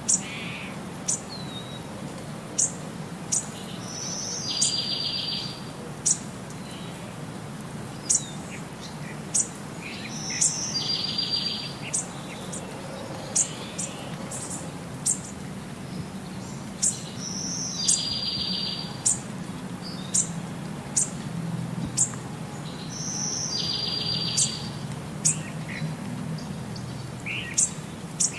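Small birds singing: short high chirps every second or so, with a buzzy trill about a second long every six to seven seconds, the pattern repeating evenly like a looped birdsong backing track.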